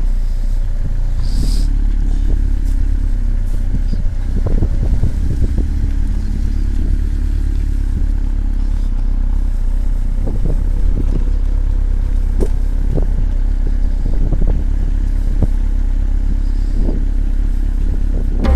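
Motorcycle running on the move: a steady low rumble with scattered clicks and rattles.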